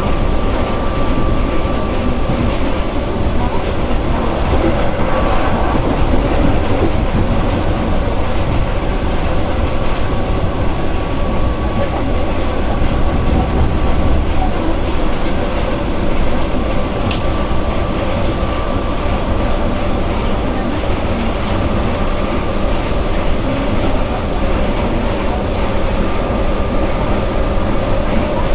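Passenger train running on the rails, heard from inside the carriage: a steady rumble of the wheels with a continuous hum under it. A few faint sharp ticks come about halfway through.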